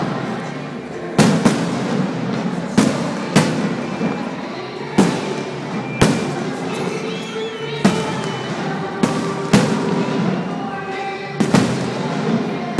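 Aerial fireworks shells bursting: around eleven sharp bangs at irregular intervals, some in quick pairs, with music playing underneath.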